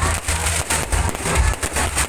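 Fireworks display going off, a rapid run of bangs and crackles, over loud accompanying music.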